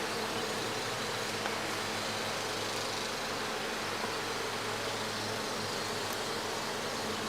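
Honeybees buzzing around an opened hive: a steady hum with no breaks.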